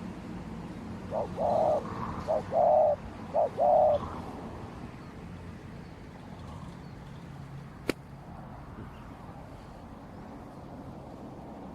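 Spotted dove cooing: one phrase of three short-then-long note pairs, strongest in the first few seconds. A single sharp click sounds about eight seconds in.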